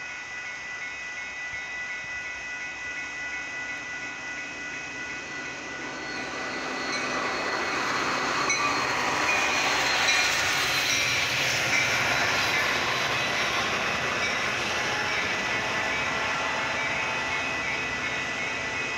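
Metra commuter train approaching and passing a grade crossing, over the steady clang of the crossing bells. The train noise grows from about six seconds in and is loudest around ten seconds as the locomotive goes by, then carries on as the double-deck passenger cars roll past.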